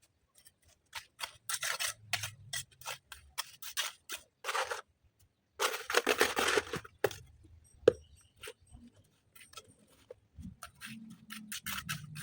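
An irregular series of short, sharp scrapes and rasps, with a longer scrape about six seconds in; a low hum comes in near the end.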